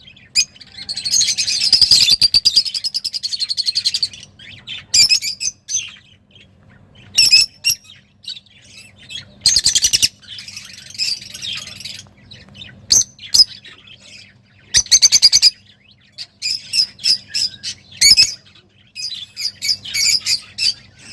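Songbird singing excitedly in bursts of rapid high chirps and fast trills, phrase after phrase with short pauses between, the longest trill about a second in and lasting some three seconds.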